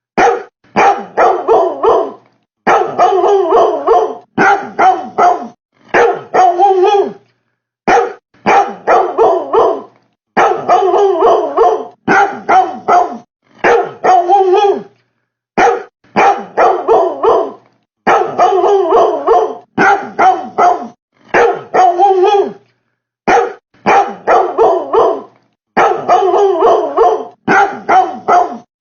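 Dog-like barking in quick runs of two to four barks separated by short gaps, repeating over and over like a loop.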